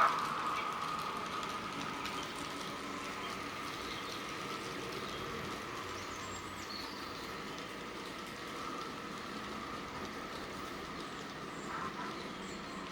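N gauge model Class 52 diesel locomotive and its train running along the layout's track, a steady whirr and rattle of the small motor and wheels. It eases off a little over the first couple of seconds, then holds steady.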